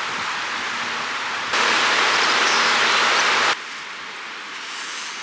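Steady rushing of a shallow stream. It becomes abruptly louder for about two seconds in the middle, then drops back to a quieter rush.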